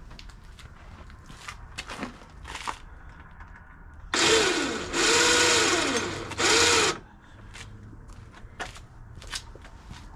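A small electric motor run in three short bursts, its pitch rising and falling within each burst, amid light clicks and knocks.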